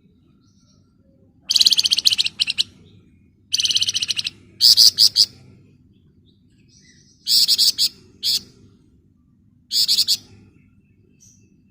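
Songbird of the kind kept in Indonesia as a 'flamboyan' singing in dense, rapid trills: five high-pitched bursts of a second or less, each a fast run of buzzy notes. A faint low hum runs underneath.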